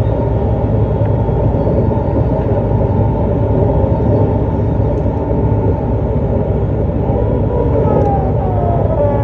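JR East E259 series Narita Express running: a steady rumble of wheels and train noise, with a whine that falls in pitch near the end.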